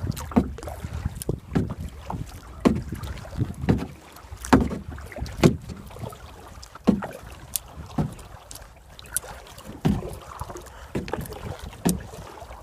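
Kayak paddle strokes: the blade dipping and pulling through the water with a knock against the boat about once a second.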